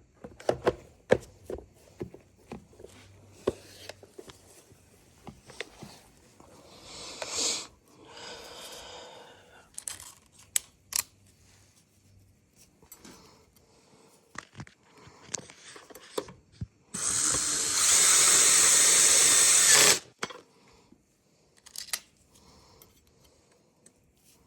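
Small parts and tools clicking and clattering as they are handled, with a power drill running twice: briefly about a third of the way in, then louder and steady for about three seconds later on.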